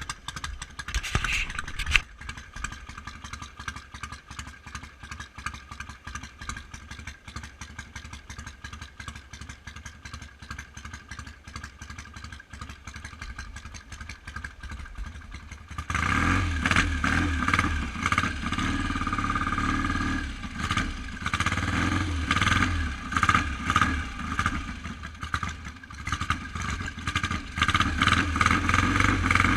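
1971 BSA Lightning's 650 cc parallel-twin engine running at a low, steady idle. About halfway through it suddenly gets much louder, and its loudness rises and falls as the engine is run up.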